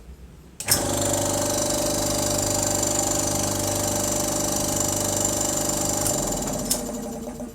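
Restored Iwata oilless air compressor switched on with a click and running steadily for about five seconds. Then it is switched off and winds down to a stop.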